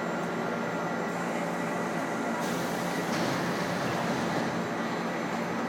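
Korail Class 1000 electric multiple-unit train running through the station, a steady rail noise with faint steady tones. A higher hiss joins about two and a half seconds in.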